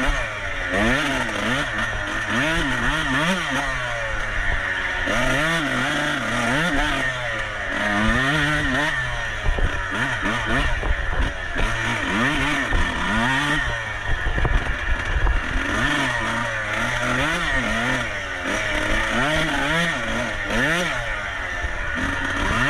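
Off-road racing dirt bike engine revving up and falling back again and again as the throttle is worked on and off, about once a second.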